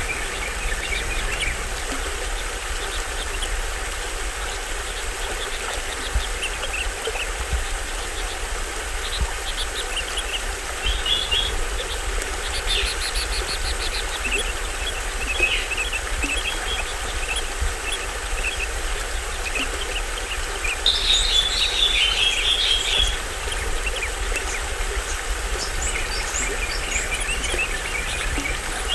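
Small stream waterfall splashing steadily, with forest birds chirping over it. About three-quarters of the way through comes a louder burst of rapid high calls.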